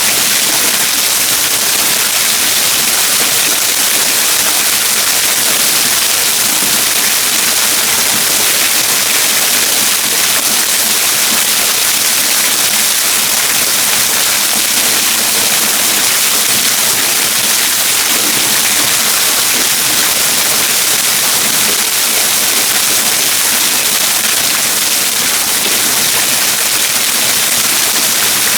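Waterfall rushing: a steady, loud hiss of falling water that does not let up.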